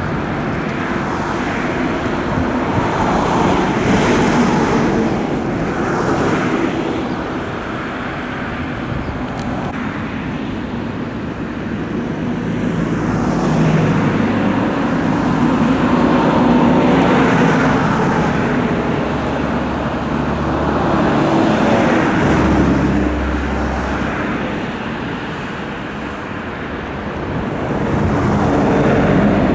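Road traffic noise: the rush of passing vehicles over a low engine hum, swelling and fading several times as vehicles go by.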